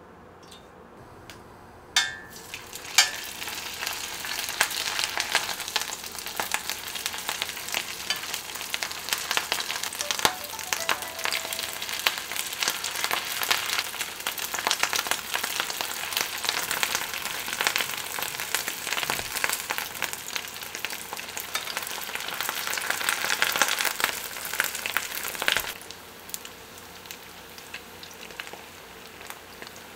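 Rice patties shallow-frying in hot vegetable oil in a square metal pan, a dense crackling sizzle. It starts suddenly about two seconds in and turns much quieter for the last few seconds.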